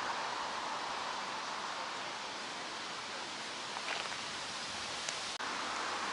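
Steady outdoor rustle of warm summer wind, with a faint click or two a few seconds in.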